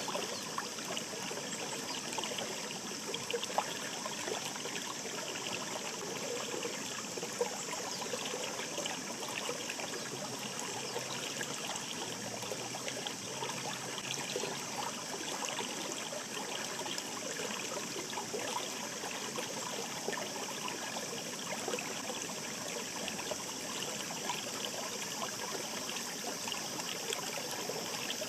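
Shallow mountain stream babbling steadily, with many small trickles and splashes.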